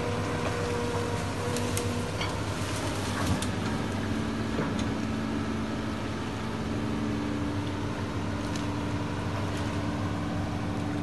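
An engine running steadily. Its tone steps up a little about three and a half seconds in and again near seven seconds, with a few light knocks.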